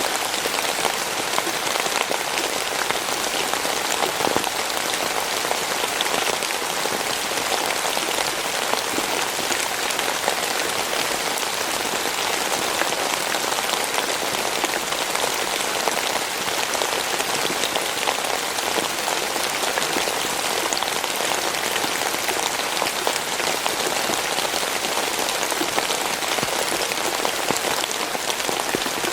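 Steady rain falling, a dense patter of individual drops over an even hiss, with no let-up.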